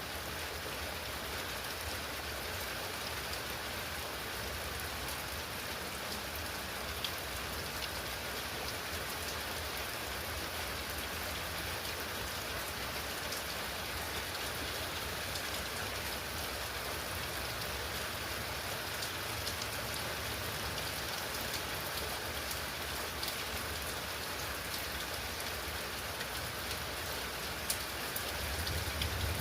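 Steady rain falling during a thunderstorm, an even hiss with a few faint drop clicks. In the last second a low rumble of thunder starts to swell.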